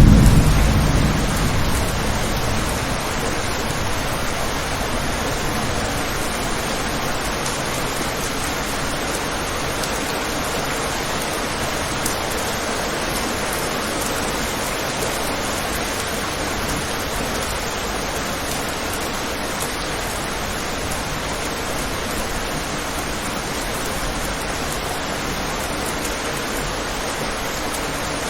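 Steady rain pattering on a window, an even hiss, with the tail of a thunder rumble dying away in the first second or two.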